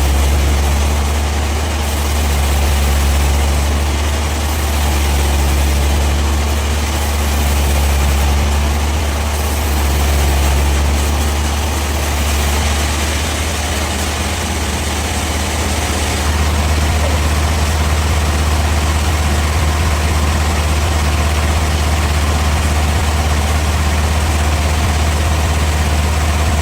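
Sawmill machinery running with a steady, loud low hum. The level swells and eases every couple of seconds at first, then holds steady from about sixteen seconds in.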